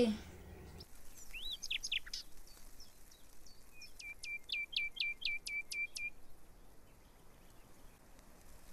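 Small birds chirping: a few quick rising chirps, then a run of about eight short repeated notes, each dropping in pitch, at about four a second.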